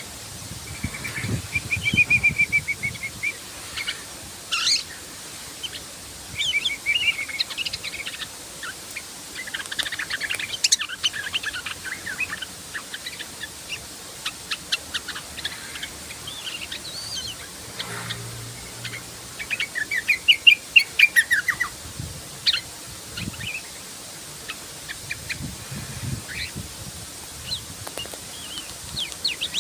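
Sooty-headed bulbul singing in full song, in repeated bursts of quick chirping, warbling notes separated by short pauses. The loudest burst comes about two-thirds of the way through.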